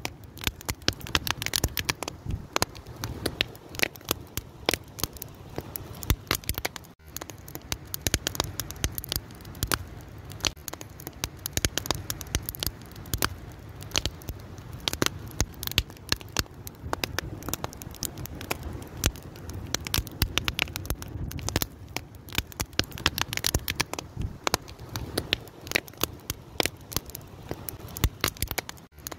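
Fire crackling steadily, with dense irregular pops and snaps over a low rumble of burning.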